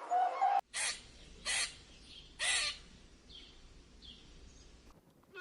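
A bird giving three loud harsh, raspy calls about a second apart, followed by two fainter ones. A pitched honking call is cut off about half a second in, just before them.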